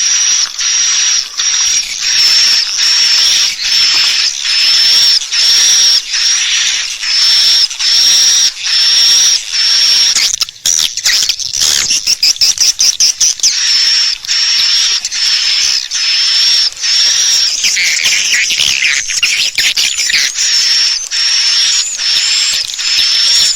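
Swiftlet calls played as a lure for swiftlet farming. A high, buzzy chirp repeats about one and a half times a second. About halfway through comes a burst of rapid clicks, and toward the end the calls turn into more varied twittering.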